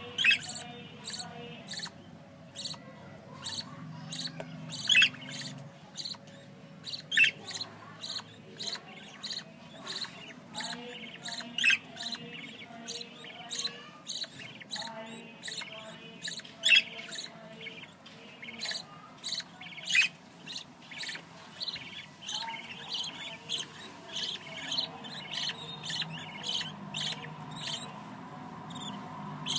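Budgerigars chirping and chattering: a run of short, sharp chirps with a louder call every few seconds.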